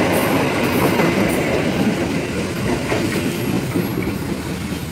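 Passenger train coaches rolling past at close range, wheels clattering on the rails; the sound fades as the last coach goes by.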